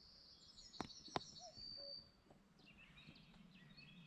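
Faint birdsong: small birds trilling and warbling high, with a low two-note call heard twice. Two sharp clicks about a second in.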